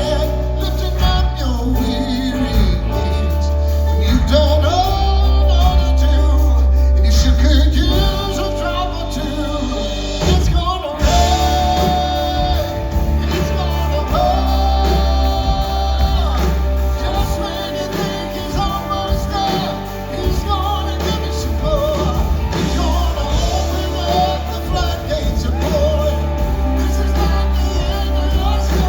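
Live gospel song: singing with held notes over a full band with heavy bass.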